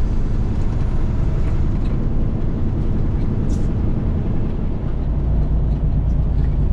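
Cat 3406E inline-six diesel of a Freightliner FLD120 semi truck running at road speed, a steady low drone with road noise heard inside the cab. The low drone gets heavier about five seconds in.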